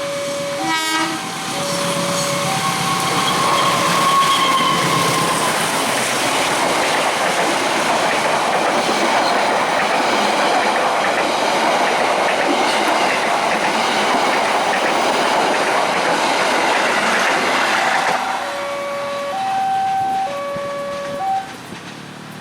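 Level-crossing alarm chiming in an alternating two-note pattern, then a short train horn blast about a second in. A train then passes over the crossing with loud rolling wheel and rail noise and a brief squeal. Its noise fades at about 18 seconds, the two-note alarm is heard again, and it stops shortly before the end.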